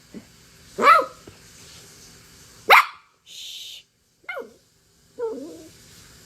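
A dog barking: two loud, sharp barks about two seconds apart, then a few quieter barks.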